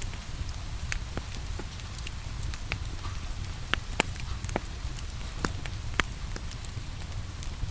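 Wood fire crackling in a fireplace, irregular sharp pops and snaps over a steady low rumble and hiss of rain.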